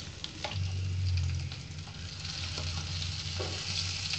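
Vegetable cutlets shallow-frying in hot oil in a nonstick pan: a steady crackling sizzle, with a few short strokes of a silicone spatula moving the patties and a low steady hum underneath.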